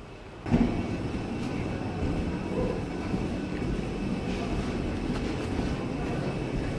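Steady hum and hiss of an Airbus A320 cabin, starting abruptly about half a second in.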